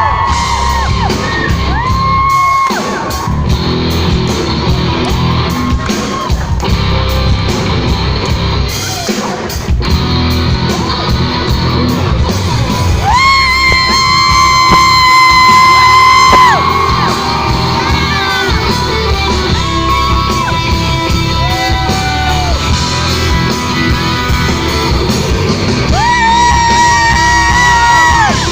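Live band music in a large hall, with a singer holding long, high, wailing notes that bend at their ends, over the full band.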